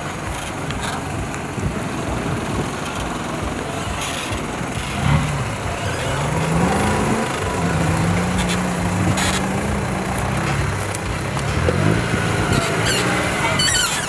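Off-road 4x4's engine revving under load, its pitch rising and falling in several surges from about five seconds in.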